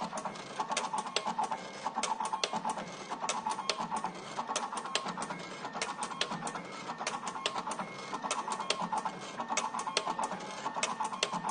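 Automatic electric-wire cutting machine running, cycling evenly a little more than once a second, each cycle a short motor whirr with sharp clicks of the feed and cutter.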